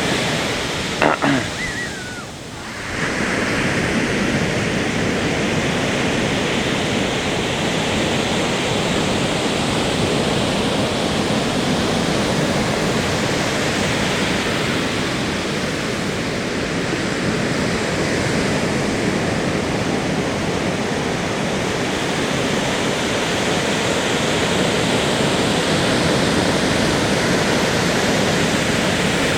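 Ocean surf rushing steadily at the shoreline, a continuous hiss of breaking waves that dips briefly about two seconds in and then holds steady.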